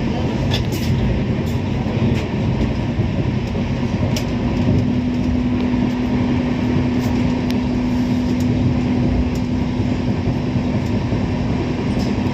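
A moving train running on the track: a steady rumble of wheels on rails with a constant hum, and a few light clicks.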